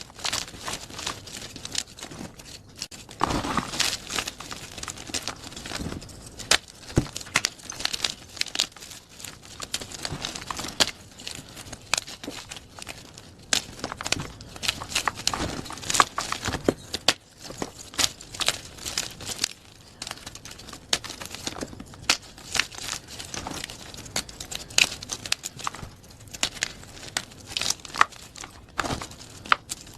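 Plain gym chalk being crushed by hand, a dense run of sharp crunches and crackles as the chalk crumbles into soft powder.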